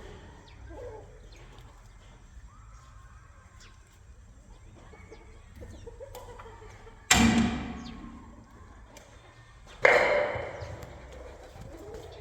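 Two loud sudden bangs, about three seconds apart, each dying away over a second or so, over a faint quiet background.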